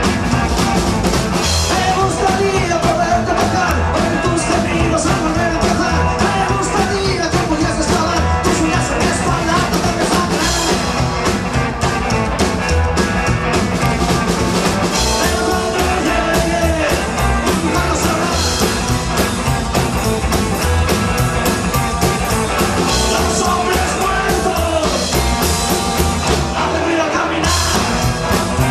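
Rock song played by a full band, with a steady drum beat and a singing voice over it.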